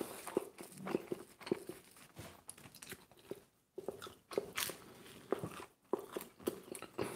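A man chewing a mouthful of pizza close to the microphone: irregular crunches and clicks, with a brief pause a little past the middle.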